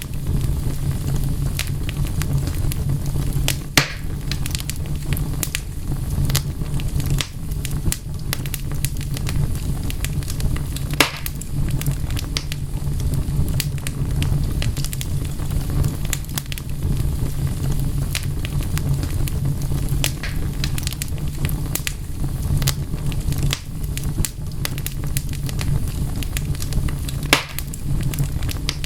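Wood fire crackling steadily over a low rumble, with frequent small pops and a few louder snaps, about 4, 11 and 27 seconds in.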